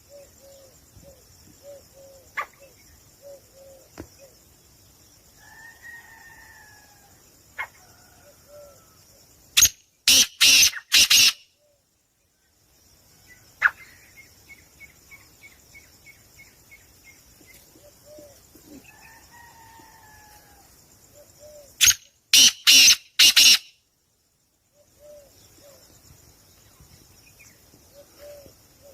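Caged birds calling: soft, short calls repeated a few times a second, a few falling call notes and a quick trill. Twice a much louder, harsh cluster of three or four short blasts cuts in.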